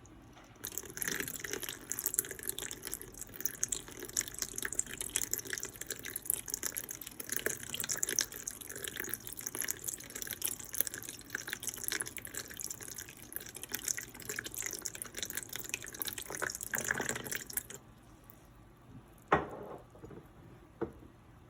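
Soy sauce pouring from a bottle into the marinade in a steady, splashing stream that runs for about seventeen seconds and then stops. A single sharp click follows a couple of seconds later.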